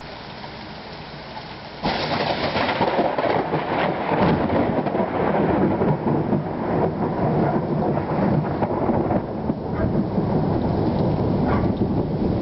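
Thunder from a close lightning strike: a sudden crack about two seconds in, then a long, loud, crackling rumble, with rain falling throughout.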